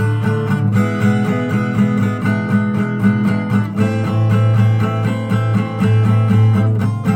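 Acoustic guitar playing chords in a steady, even rhythm, changing chord about a second in and again near four seconds.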